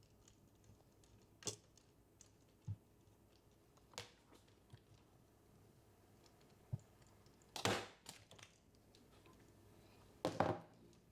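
A staple gun firing staples to fix chicken wire to a cabinet door: about four sharp snaps spread a few seconds apart, the last two the loudest, with two dull knocks in between.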